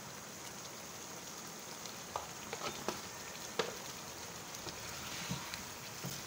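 Chicken pieces in a yogurt-and-cream karahi sauce sizzling steadily in a pan over high flame. A wooden spatula stirs it, with a few sharp knocks and scrapes against the pan between about two and four seconds in.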